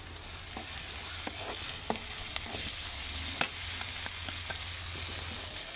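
Onions with freshly added ginger and chillies sizzling in hot oil in a steel kadhai, with a steady hiss. A steel ladle stirs and taps against the pan in scattered clicks, the sharpest about three and a half seconds in.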